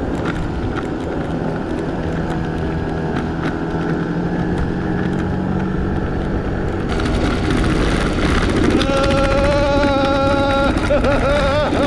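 Small 50cc scooter engine running steadily while riding, with road and wind noise; from about nine seconds in a higher steady engine note comes in, and it wavers up and down near the end.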